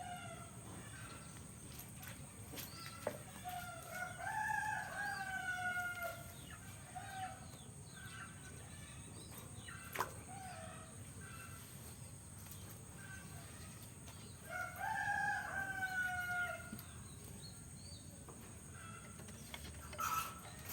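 A rooster crowing twice, about ten seconds apart; each crow is long and drops in pitch at the end. Faint, short bird chirps come in between, with a single sharp click midway.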